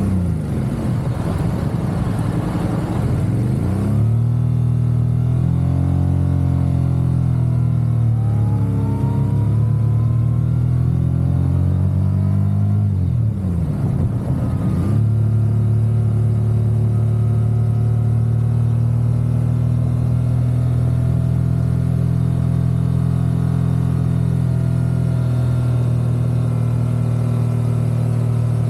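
Motorcycle engine running while under way. Its pitch drops and climbs again twice, near the start and about halfway through, and wavers in between, then holds steady at a constant pace.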